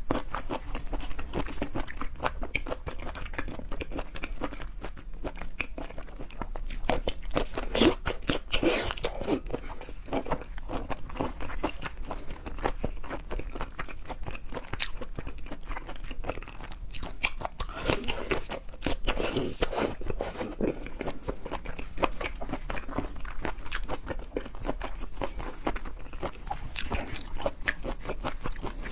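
Close-miked eating of seafood: a steady run of crunchy bites and wet chewing, with dense, irregular crunches throughout.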